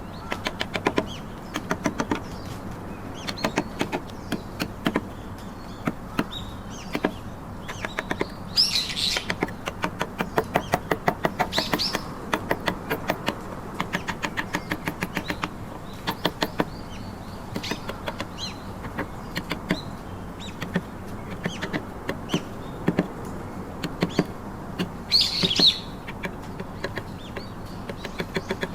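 Woodcarving chisel struck with a mallet into trembesi wood: runs of sharp taps, several a second at times, with short pauses between runs.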